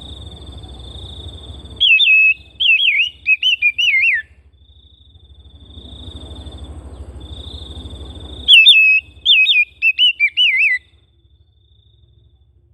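Oriental magpie-robin (kacer) song: two loud phrases of rapid, warbling up-and-down whistles, each about two seconds long and the same in shape, some six seconds apart. A faint steady high whine and a low hum sit underneath.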